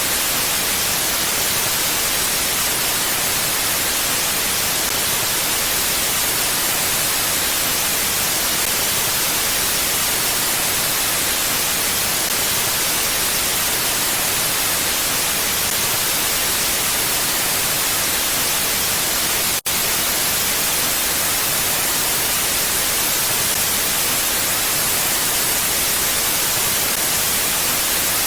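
Steady, even hiss of a mountain wind ambience track, with no rise or fall of gusts and no other sounds. About twenty seconds in it drops out for a split second, like a loop seam.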